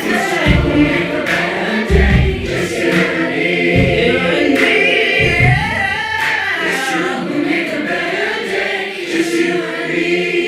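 Music: a choir singing with accompaniment, with deep drum hits about every second and a half in the first half, then a held chord.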